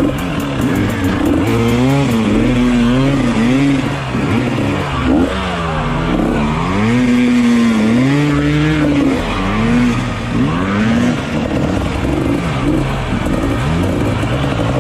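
Dirt bike engines revving up and down over and over, the pitch rising and falling every second or so, with more than one engine at once at times.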